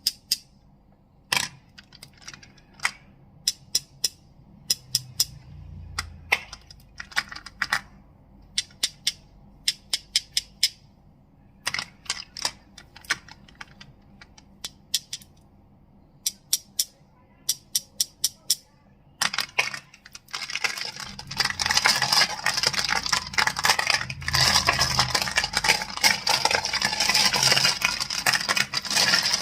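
Crystals clicking and clacking together in small quick clusters of sharp clicks, then, about two-thirds of the way in, a dense, continuous clatter of crystals rattling against each other.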